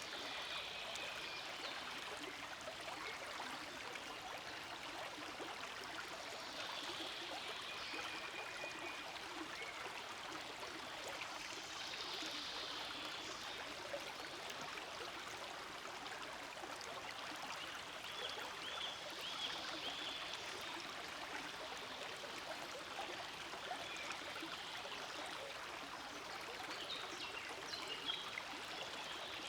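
Forest stream flowing steadily, water babbling and trickling over stones, with faint high chirps now and then.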